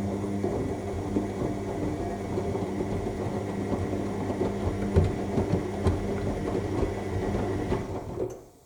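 AEG 7000 Series washing machine in its main wash: the drum motor hums while the laundry tumbles and sloshes in the turning drum. Near the end the motor stops and the sound cuts off as the drum pauses between turns.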